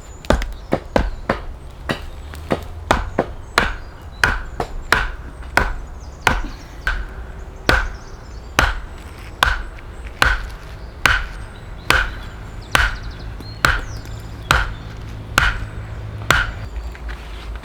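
An axe chopping into a log: a long run of sharp strokes, quick and overlapping in the first few seconds, then settling to about one stroke every three-quarters of a second.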